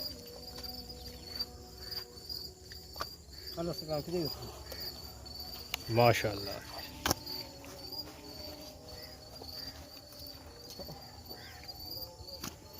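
Insects, crickets by the sound, chirping in a steady high-pitched repeating rhythm, with a few sharp clicks.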